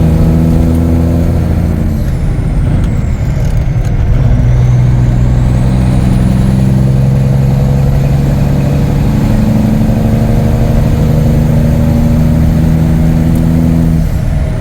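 Peterbilt 359's Cummins diesel engine pulling under way, its pitch holding, breaking off about two seconds in and coming back lower, then climbing and breaking off again near the end, as with gear shifts.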